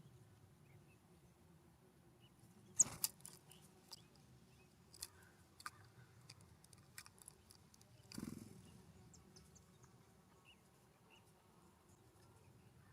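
Sharp taps and clicks of birds pecking and hopping at a ground feeder: a quick cluster about three seconds in, scattered single taps after, and a short rustling burst about eight seconds in.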